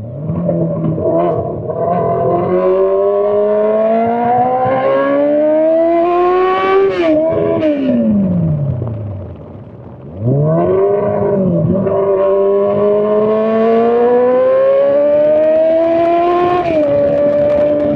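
Straight-piped Honda CBR600 inline-four being ridden hard: the engine note climbs steadily under throttle, falls away and quietens about seven seconds in, then comes back in loudly about ten seconds in and climbs again, with a sudden drop in pitch near the end.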